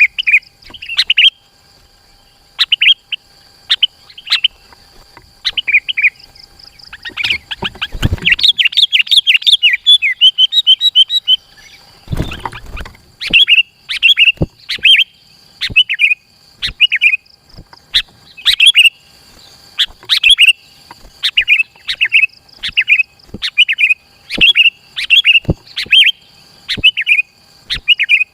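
Sooty-headed bulbul (kutilang) calling in short, loud, repeated phrases, with a fast, unbroken run of notes about a quarter of the way in. A brief low rumble near the middle, and a faint steady high tone in the background.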